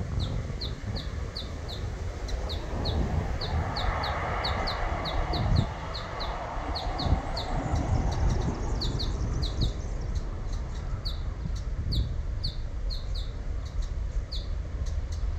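A bird calling in a steady series of short, high chirps, about two or three a second, over a constant low rumble.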